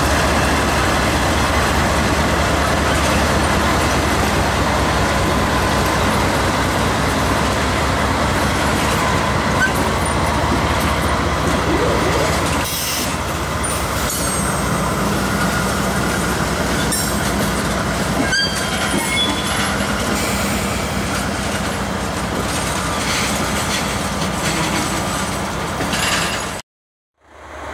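Norfolk Southern diesel freight locomotive running as it passes, then the steady rolling noise of loaded tank cars and covered hoppers going by on the rails. The sound cuts off suddenly about a second before the end.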